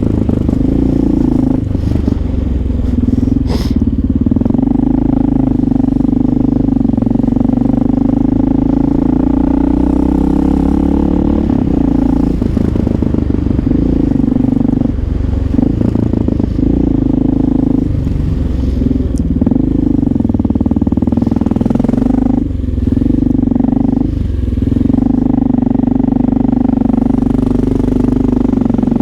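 Honda XR650L single-cylinder four-stroke motorcycle engine running under way, its pitch rising and falling with the throttle and dropping off briefly a few times, as at gear changes. A short sharp click comes about three and a half seconds in.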